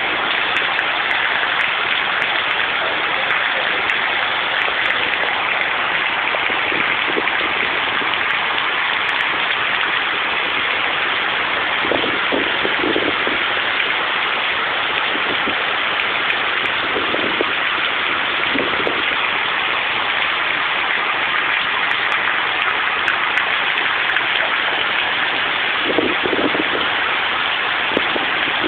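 Heavy rain falling: a steady, dense hiss of water, with a few brief swells now and then.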